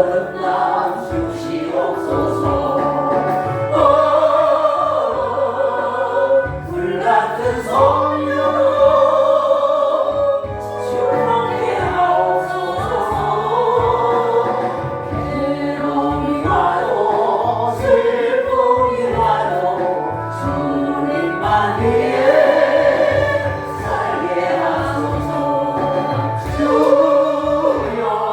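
A congregation singing a hymn in Korean, slow held notes over sustained low accompaniment.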